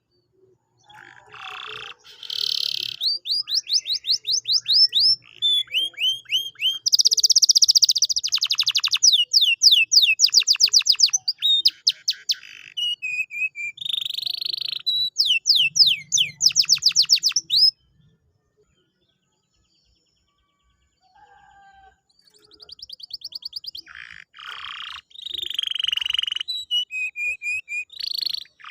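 Domestic canary singing: a long song of rapid trills and runs of repeated high, sweeping notes. It breaks off about 18 seconds in and starts again a few seconds later.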